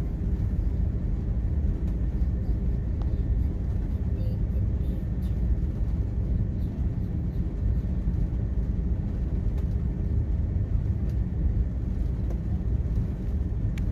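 Steady low rumble of an Airbus airliner's engines and air system, heard from inside the passenger cabin before takeoff, with a few faint clicks.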